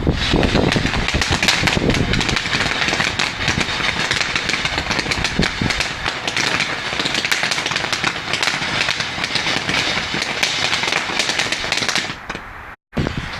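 Fireworks crackling in a dense, rapid, continuous stream of small pops, which breaks off abruptly near the end.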